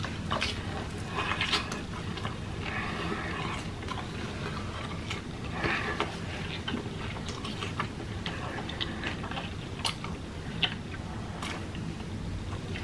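A person biting into and chewing a fried egg roll: wet chewing sounds with many short, sharp clicks scattered throughout.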